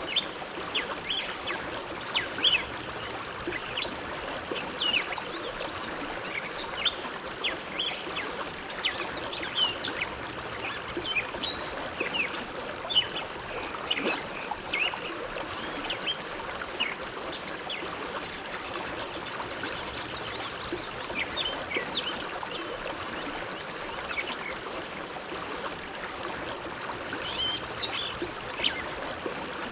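The Bow River flowing past the bank: a steady rush of water with frequent small, irregular splashes and gurgles on top.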